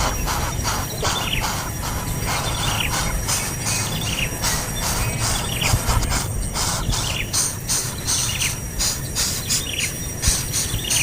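A bird chirping over and over, short falling calls about once a second, against a steady high whine and a low rumble, with many quick clicks mixed in.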